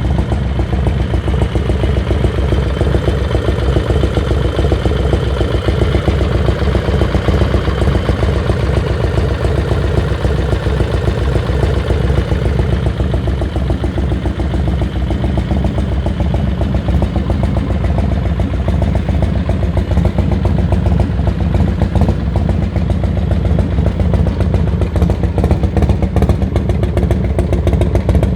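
Harley-Davidson motorcycle with an aftermarket 113-cubic-inch Ultima V-twin engine running steadily, its exhaust pulsing evenly.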